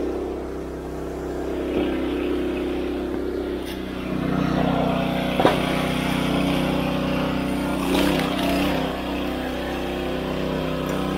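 An engine running steadily; its note shifts about four seconds in, and a single sharp knock sounds a little later.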